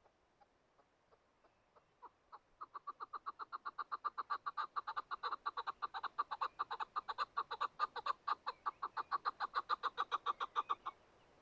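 Chukar partridge calling: a series of clucking notes that starts sparse, speeds up to about six a second, runs steadily for several seconds and cuts off suddenly near the end.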